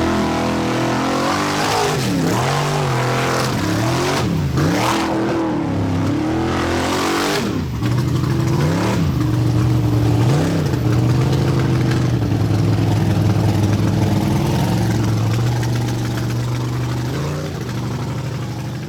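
A vehicle engine revving, its pitch dropping and climbing again several times, then held at a steady high run for several seconds before easing off near the end.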